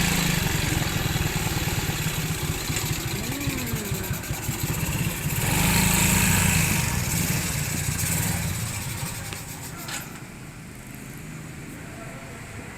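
Motorcycle engine running under way, with road and wind noise as it rides through city traffic. The sound swells louder about halfway through, then falls quieter from about ten seconds in.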